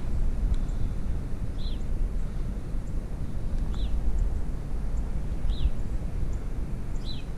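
A bird repeats a short falling chirp four times, about every two seconds, over a steady low rumble.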